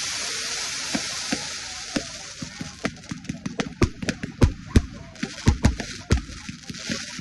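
Fireworks: a steady hiss that fades over the first three seconds, then a rapid run of sharp cracks and bangs, several of them loud.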